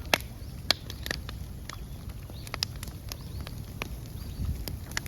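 Bamboo burning in an open fire: a steady low rush of flame with irregular sharp crackles and pops, the loudest snaps falling in the first second or so.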